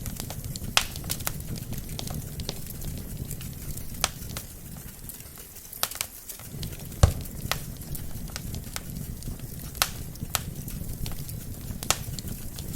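Burning wood logs in a fireplace crackling: irregular sharp pops and snaps over a low, steady rumble of flame. The loudest pop comes about seven seconds in.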